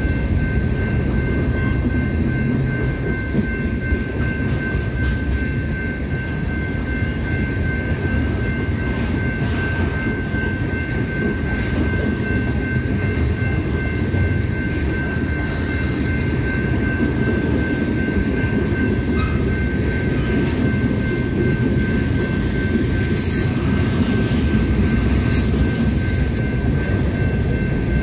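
Freight train cars, mostly covered hoppers, rolling past: a steady rumble of steel wheels on rail with scattered clicks, and a faint steady high tone over it.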